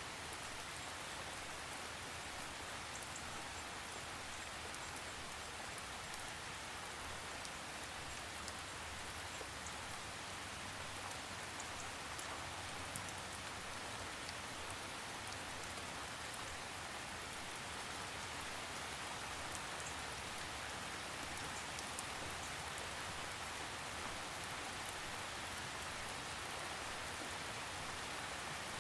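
Steady rain falling, an even hiss of drops with faint scattered patters of individual drops, no thunder.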